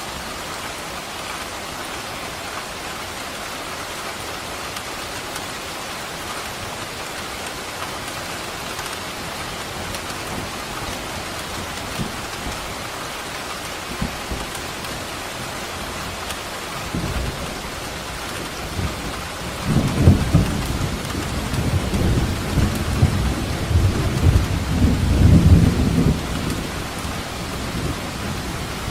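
Steady heavy rain, with a rumble of thunder building about two-thirds of the way in, peaking with sharp cracks for several seconds, then fading back to the rain.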